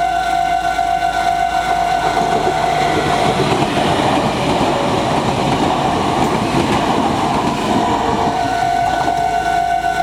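Japanese level-crossing warning bell ringing steadily. From about three seconds in, a Meitetsu Nagoya Main Line train passes over the crossing and drowns it out, and the bell is heard clearly again near the end.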